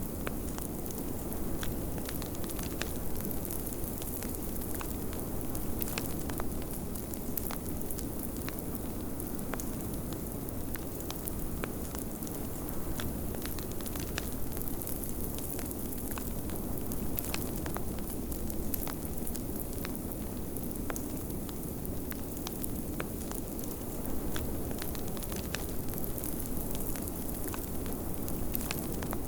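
Wood fire crackling with frequent small pops, over a steady low rushing of blizzard wind.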